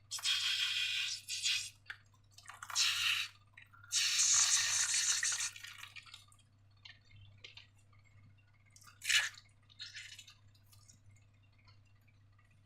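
Liquid slime being poured and squeezed, with wet dripping and squishing sounds. It comes in three longer bursts in the first six seconds, then a few short, softer sounds.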